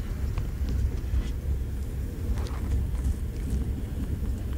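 Steady low rumble of a KTM Senandung passenger train running along the track, heard from inside the carriage, with a few faint brief clicks and squeaks over it.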